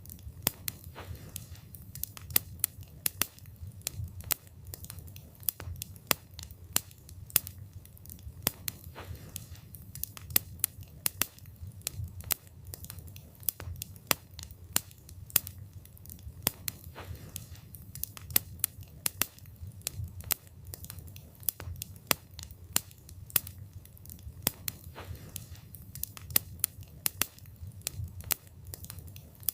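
Wood fire crackling: frequent, irregular sharp pops and snaps of burning wood over a low steady rumble of the flames.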